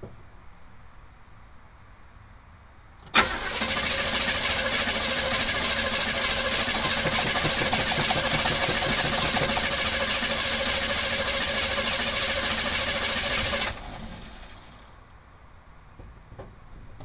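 1976 Chevy Blazer engine with a Holley 600 four-barrel carburetor starting up with a sudden burst about three seconds in, running steadily for about ten seconds, then switched off abruptly and dying away.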